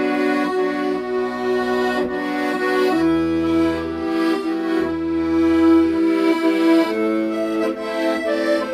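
Accordion playing a slow melody of long held notes over sustained bass notes and chords, from an old Korean popular song.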